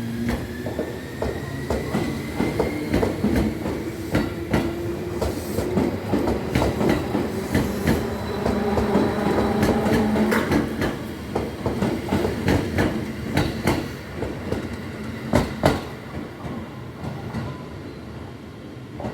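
Electric train running along the track, its wheels clicking and clacking over rail joints, with a tone from the motor that rises over the first few seconds. A pair of sharper, louder clicks comes about three quarters of the way through.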